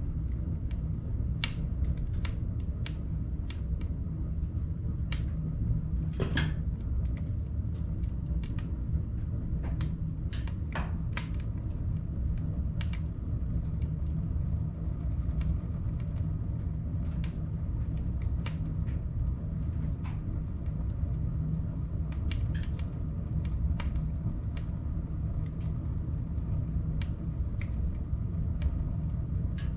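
Firewood burning in a wood stove: irregular sharp crackles and pops over a steady low rumble.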